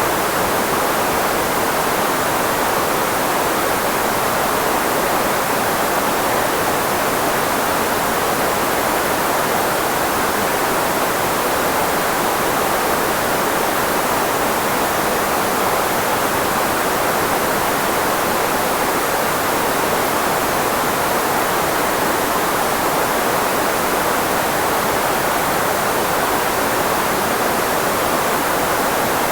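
Steady filtered white noise, shaped to mask the frequencies of human speech: an even hiss, strongest through the middle of the voice range, that does not change.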